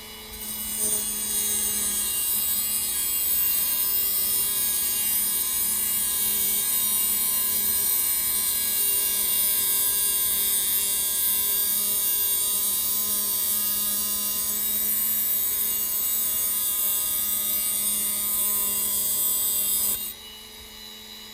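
High-speed power tool cutting steadily through the wire coils of a Heli-Coil thread insert. It starts about half a second in and cuts off suddenly shortly before the end, over a steady background hum.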